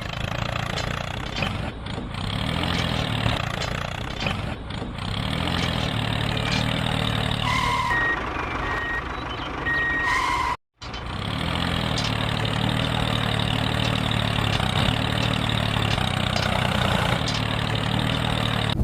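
Vehicle engine running steadily with a low hum. A short run of beeps like reversing beeps comes about eight seconds in, and the sound drops out briefly just after.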